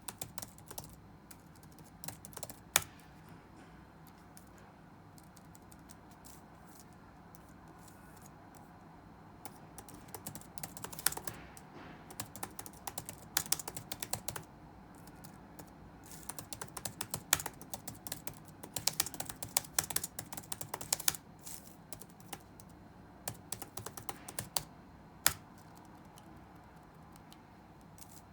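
Computer keyboard typing: a few keystrokes, a pause of several seconds, then irregular bursts of fast typing that thin out near the end, over a steady low room hum.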